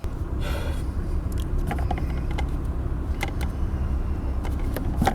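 A vehicle engine running with a steady low rumble that sets in abruptly, with scattered light clicks and knocks over it.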